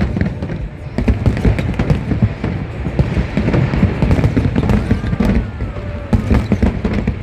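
Fireworks bursting in quick succession: a dense run of bangs and crackles over a low rumble.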